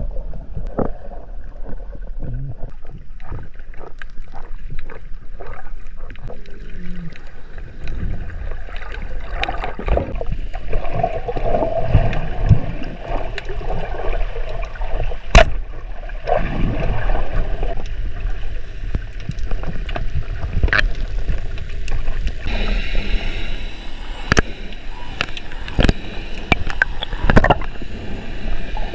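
Water sloshing and gurgling around the camera, with many scattered clicks and knocks.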